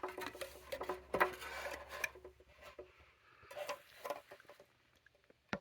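Light scraping, rubbing and small clicks of a measuring tool being handled against the vintage Hoover Model O vacuum cleaner's base. The sounds thin out partway through, and there is one sharp click near the end.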